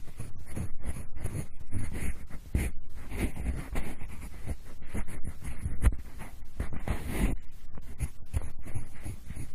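Pencil scratching and rubbing in the style of ear-cleaning ASMR, heard in both ears at once: a continuous run of irregular rasping strokes, several a second.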